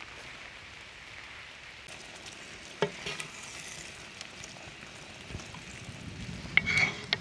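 Chicken sizzling in a pan of cheese sauce, a steady hiss, with a sharp clink about three seconds in and a quick cluster of louder clinks near the end, like a utensil against the pan.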